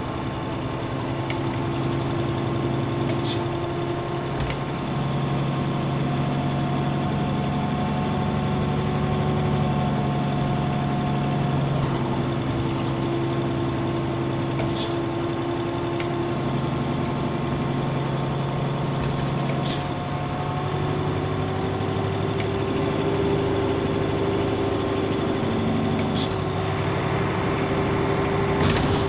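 Running sound of a Nissan Diesel UA route bus with its PF6HTA diesel engine, heard from on board: a steady engine drone whose pitch steps to a new level twice as engine speed changes. A few sharp clicks stand out over it.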